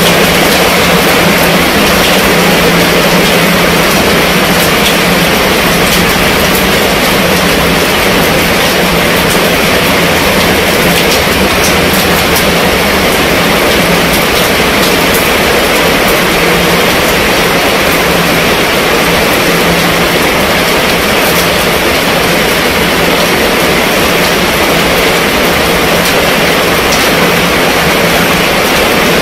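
Heavy rain falling steadily on a tent's canvas and the wet ground around it: a dense, even downpour that neither builds nor eases.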